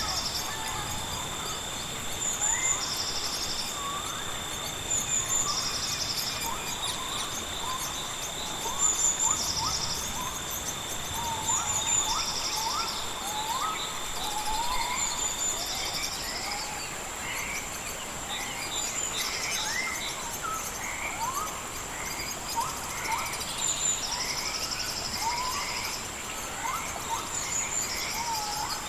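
Rainforest night-chorus ambience: two steady high-pitched insect drones, one of which stops about halfway through, with a pulsing insect buzz repeating every two to three seconds. Over them come many short rising chirps from calling birds.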